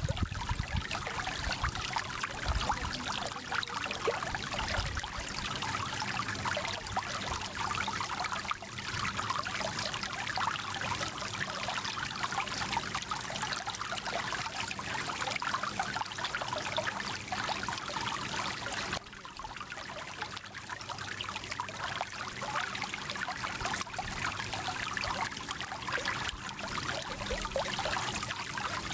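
Small stream rushing and trickling, a steady water noise that dips briefly in level about two-thirds of the way through, then builds back.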